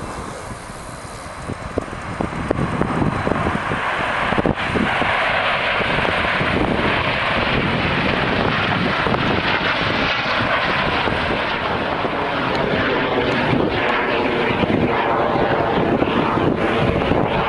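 Airplane engine noise building over the first few seconds, then loud and sustained as the aircraft passes close by.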